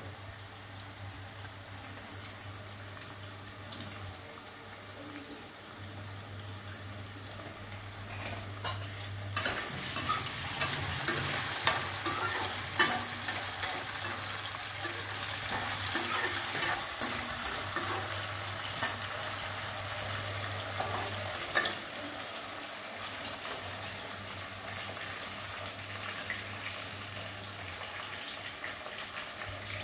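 Potatoes, cumin and green chillies sizzling steadily in oil in a steel kadhai. From about eight seconds in, a metal slotted spoon stirs them for roughly a quarter of a minute, with clicks and scrapes against the pan and a louder sizzle, before it settles back to the plain sizzle.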